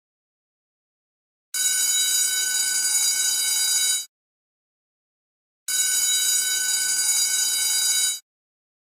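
School bell ringing in two bursts of about two and a half seconds each, the first starting about a second and a half in, with a silent gap of about a second and a half between them.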